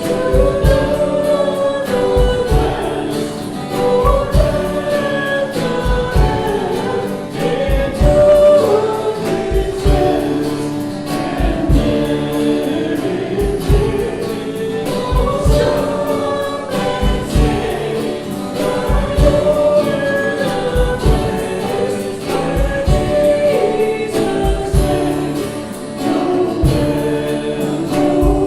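Worship song with several voices singing over instrumental accompaniment and a steady beat.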